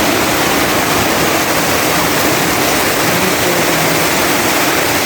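Heavy typhoon rain pouring down, a loud steady hiss.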